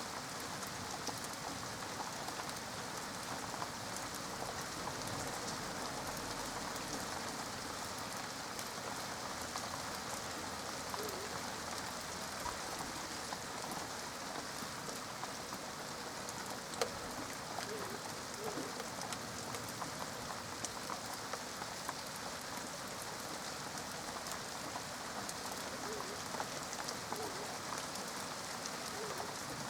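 Steady rain falling, the patter of individual drops on a surface running throughout, with one sharper drop-like tick about seventeen seconds in.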